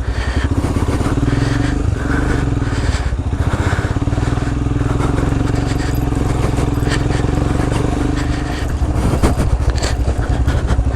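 Royal Enfield Himalayan's single-cylinder engine running steadily as the motorcycle is ridden along a dirt trail. The engine eases off about eight seconds in, then picks up again.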